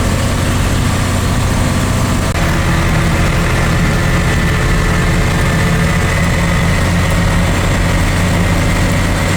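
Deuce-and-a-half military dump truck's engine running steadily under way on the freeway. About two seconds in the engine note steps up and a high whine joins it.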